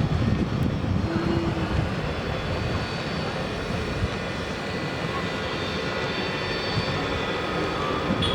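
Small drone motors on a homemade drone airplane running with a steady high-pitched whine, over a rumbling noise.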